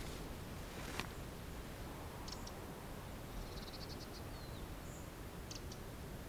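Small songbirds calling: scattered short, high, thin chirps and a quick run of about ten ticks near the middle, with a short falling note after it. A single sharp click about a second in.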